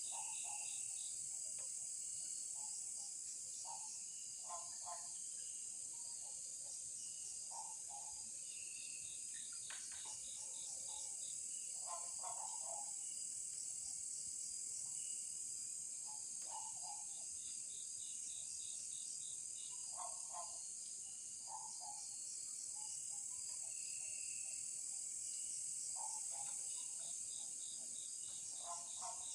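Night insect chorus with crickets: a steady high-pitched drone under repeating pulsed chirping trills, with short lower calls coming every second or two.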